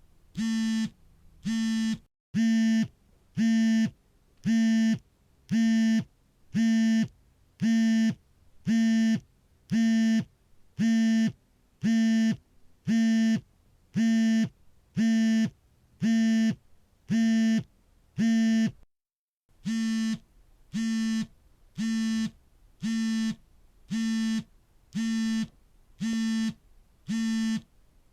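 Smartphone vibration motor buzzing for an incoming call in short, evenly spaced pulses, about three every two seconds, each a steady low-pitched buzz. The pulses stop briefly twice, about two seconds in and again near 19 seconds, then carry on a little louder and then a little quieter.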